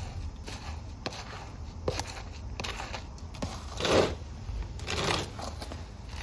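Rustling and scraping handling noises with small scattered clicks, swelling louder about four seconds in and again about five seconds in, over a low steady hum.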